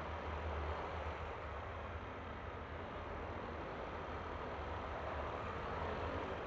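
Yamaha Aerox V3 scooter's 155 cc single-cylinder engine running at a steady cruise, mixed with the steady rush of wind and tyre noise while riding.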